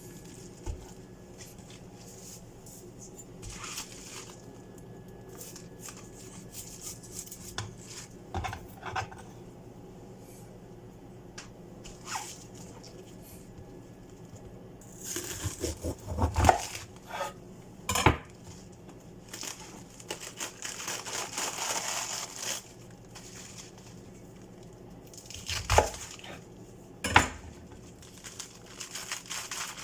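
Kitchen handling sounds: scattered clinks and knocks of dishes and utensils with some crinkling and rustling, over a faint steady hum. A few sharper knocks stand out in the middle and near the end, and a longer rustle comes just past the middle.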